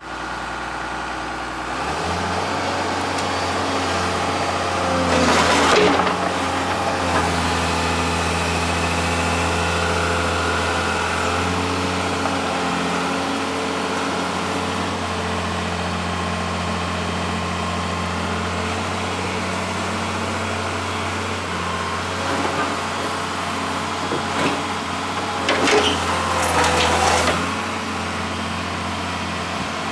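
Diesel engine of a Komatsu PC200LC-6 hydraulic excavator running, its note stepping up about two seconds in and shifting a few times after. Two louder, noisy flurries break over the engine, one about five seconds in and one near the end.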